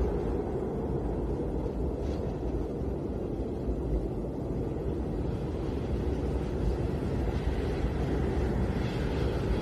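Snowstorm wind blowing steadily, a dense low rushing noise with no single gust standing out.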